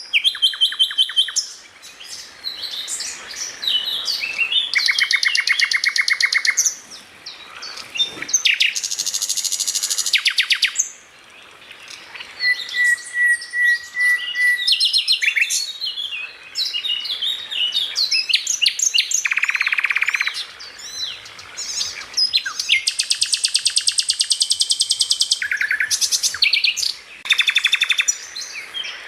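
Songbird song for masteran (bird-training) use: a fast, varied run of chirps, whistled notes, rapid trills and buzzy rattles, loud and nearly continuous with brief pauses.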